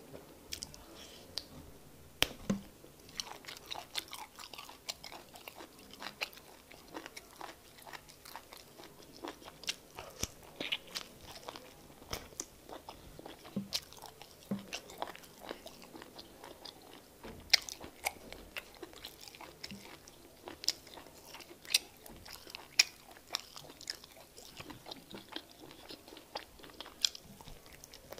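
Close-miked eating of egusi soup and fufu by hand: wet chewing with many sharp, irregular mouth clicks.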